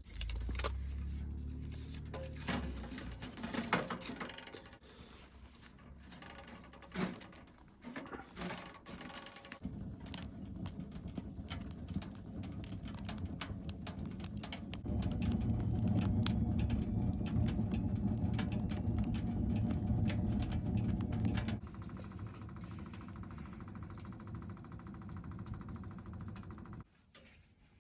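Small kindling sticks knocking and clattering as they are loaded into a wood stove, a string of sharp clicks and knocks. After that a steady droning hum takes over, stepping louder and quieter abruptly a few times.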